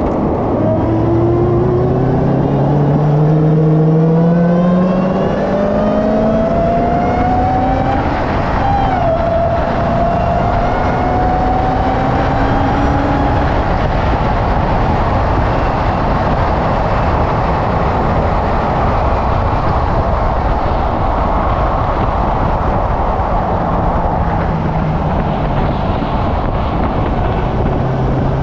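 Car engine under hard acceleration on a race track: the revs climb steadily, drop sharply at an upshift about nine seconds in, then climb again more slowly. From about halfway, a steady rush of wind and road noise at high speed covers the engine, which comes back low near the end as the car slows.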